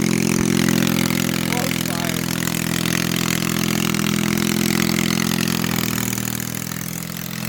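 Small Honda engine of a homemade youth pulling tractor running steadily, with a brief dip in level and a slight change of pitch about six seconds in. The tractor, without its planned turbocharger, does little even at what may be full throttle.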